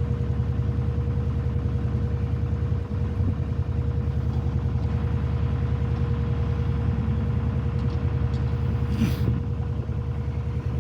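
Lister SR2 two-cylinder air-cooled diesel engine of a narrowboat running steadily under way, a heavy, fast-pulsing low rumble that sounds like a dump truck. A brief hiss comes about nine seconds in.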